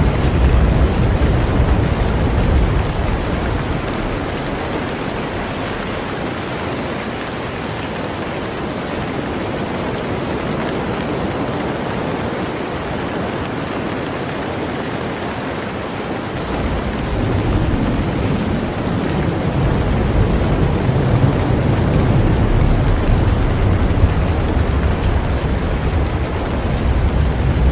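Heavy rain falling on a boat, a steady even hiss. A low rumble fades out over the first few seconds and builds again from a little past the middle.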